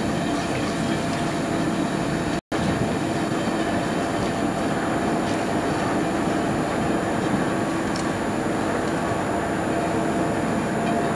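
Railtour train running slowly along dock lines, heard from on board as a steady engine and running noise. The sound cuts out for an instant about two and a half seconds in.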